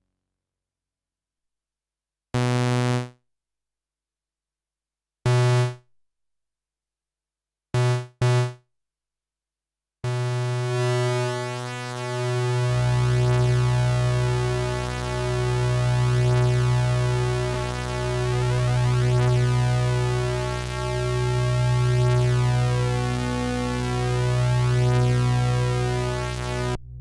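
Sequential OB-6 analog synthesizer playing a few short single notes from an init patch, then holding one low note whose tone slowly swells and fades about every two seconds as its pulse width is modulated; a deeper layer joins underneath about three seconds into the held note.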